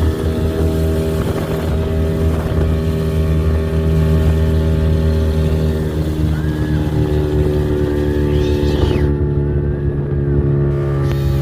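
Speedboat engine running at a steady pitch while towing an inflatable donut boat.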